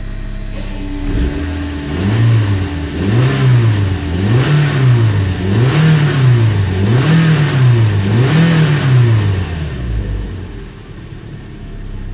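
2011 Toyota Corolla's 2ZR 1.8-litre four-cylinder engine idling, then blipped about six times in quick succession to around 4,500 rpm and back down, settling to idle again near the end. Heard from inside the cabin.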